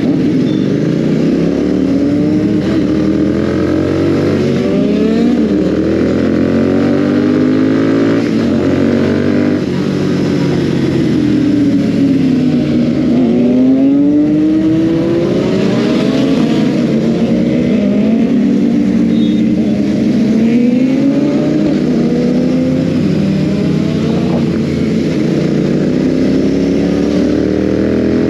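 Royal Enfield Continental GT 650's parallel-twin engine running under way, loud, its revs rising and falling again and again as the throttle is opened and rolled off.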